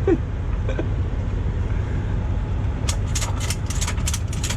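Heavy diesel truck engine idling with a steady low rumble. From about three seconds in, a quick run of sharp metallic clinks and rattles.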